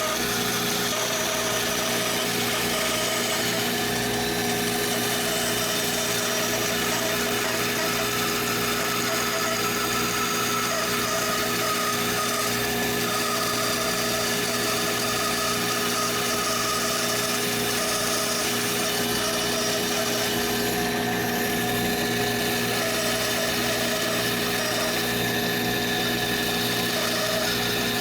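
A woodworking power tool's electric motor running steadily, giving an even hum with a noisy whir that does not change in load or pitch.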